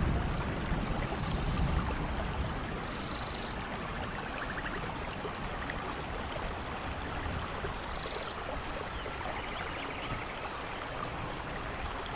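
Steady rain falling, with a low rumble of thunder dying away in the first couple of seconds. Short high chirps and buzzy trills from small animals sound now and then above the rain.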